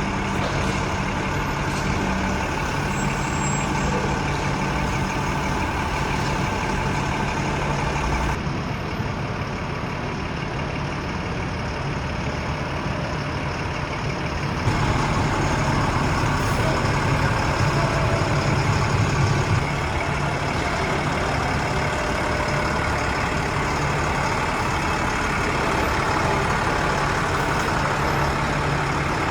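Heavy 4x4 military truck running with a steady low drone; the sound shifts abruptly about eight and fifteen seconds in.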